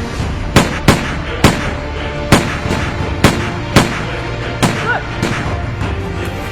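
About eight sharp gunshots, spaced unevenly over about five seconds, over soundtrack music.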